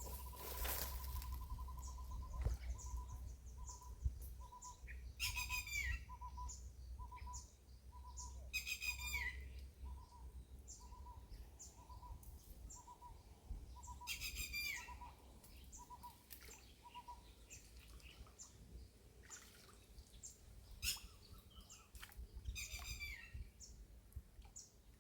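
Birds calling: one repeats a single short, even note about twice a second for most of the time, while another gives a fast falling trill four times. Faint scattered clicks and a low rumble lie underneath.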